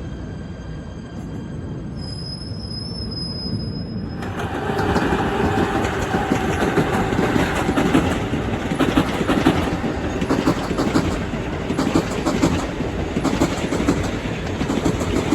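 A train running past on the rails, growing louder about four seconds in, with a rapid clatter of wheel clicks over the track.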